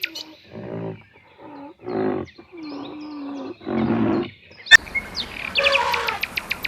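A big cat gives a series of four short, low calls in the first two-thirds. After a sharp click, birds chirp in quick regular pulses over a steady hiss.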